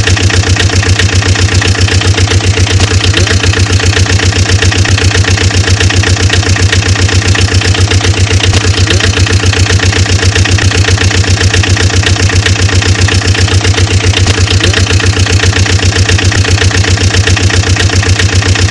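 Truck engine idling steadily, with a loud, even throb of about seven pulses a second.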